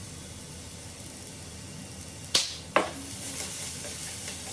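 Sliced bitter gourd (ampalaya) sizzling quietly in oil in a nonstick frying pan. A little past halfway come two sharp clicks about half a second apart, and then the sizzle grows brighter as the slices are stirred with wooden chopsticks.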